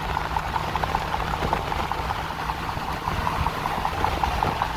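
Steady engine and road rumble inside a moving Fox-body Mustang, with a fast, irregular clatter of small clicks or rattles running over it.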